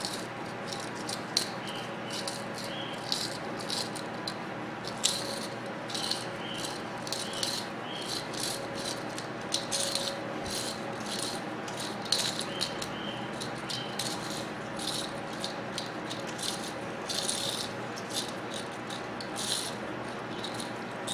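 Irregular clicks, scrapes and crackles of a small microwave cooling-fan motor being cut open and pulled apart by hand, over a steady background hum.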